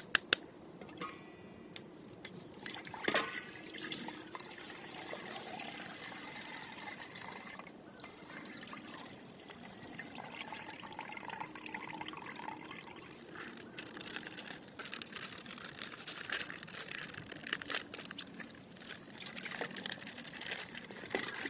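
Plastic packaging crinkling and rustling with many small crackles and clicks as a colored plastic wrapper is handled and opened.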